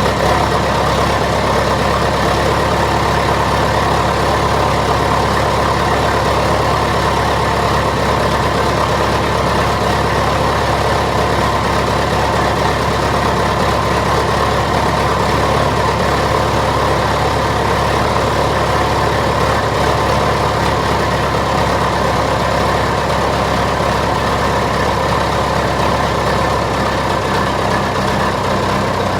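Straight-piped diesel engine of a 1978 John Deere 450C crawler loader idling steadily after a cold start. Its note changes slightly near the end.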